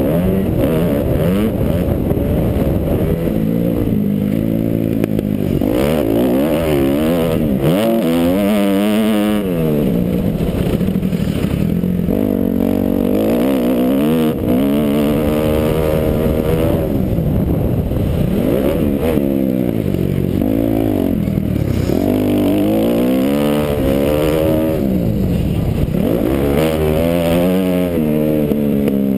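Kawasaki KX250F four-stroke motocross bike engine, heard from the rider's helmet camera, revving up and falling off again and again as it is ridden hard round the track. The pitch climbs and drops every second or two through the throttle and gear changes.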